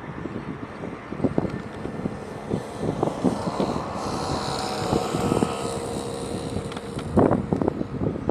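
Airbus A320-family jet airliner passing on its landing approach: jet engine noise with a high whine, swelling to its loudest in the middle and easing off. Wind buffets the microphone in gusts throughout.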